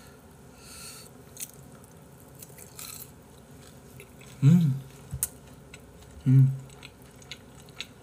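A person chewing a mouthful of food with faint wet clicks and crunches, and two short hummed "mm" sounds of the voice, about four and a half and six seconds in.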